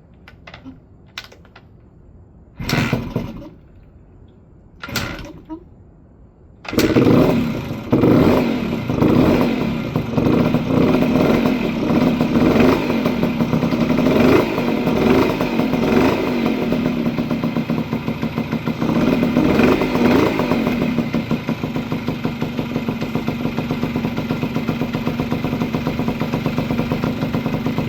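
Honda MB5's small two-stroke engine being started: two short bursts that die away, then it catches about seven seconds in and runs. It revs up and down, then settles into a steadier idle now that its clogged pilot jet has been cleared.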